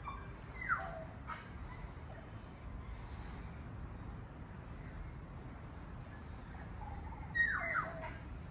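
A bird calling with short downward-sliding calls, one about a second in and a quick cluster near the end, over a low steady background rumble.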